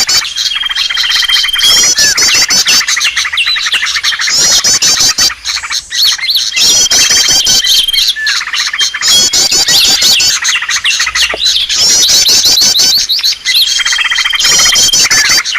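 Bird-lure recording of a dense, noisy chorus of many small birds chirping and trilling rapidly. A held whistle note recurs, and the same phrases repeat about every six seconds.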